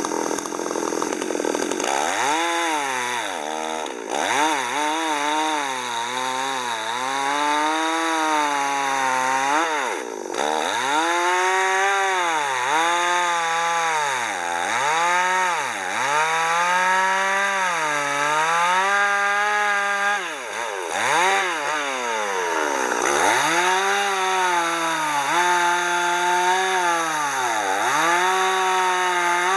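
Two-stroke chainsaw cutting wood, its engine pitch sagging repeatedly under load and picking back up between cuts.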